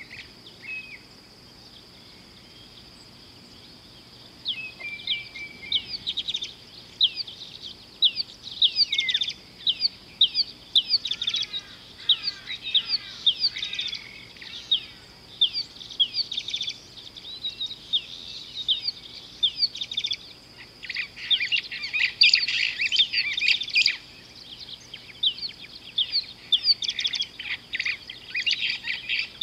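Birds calling in a busy chorus of short, quick downward-sweeping chirps that starts about four seconds in and is densest in the last third, over a steady high whine.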